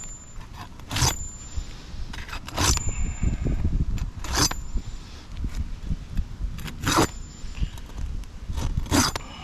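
Metal roofing tool scraping and clicking against asphalt shingles as they are worked loose, in sharp irregular strokes about every one to two seconds, several with a brief high metallic ring, over a low steady rumble.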